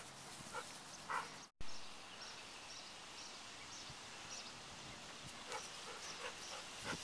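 Faint outdoor background with short, repeated high-pitched bird chirps. The sound drops out briefly about a second and a half in and comes back with a sharp click.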